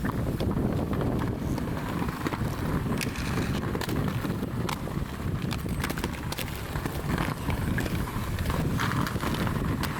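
Wind buffeting the microphone over a steady rumble of skate wheels rolling on pavement, with a few sharp clicks and knocks.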